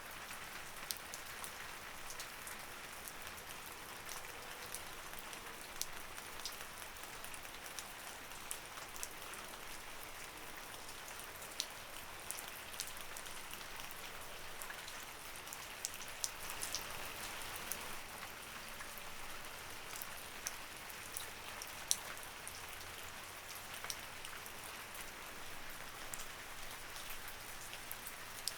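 Light rain falling steadily: an even hiss with many separate drops ticking on a surface throughout.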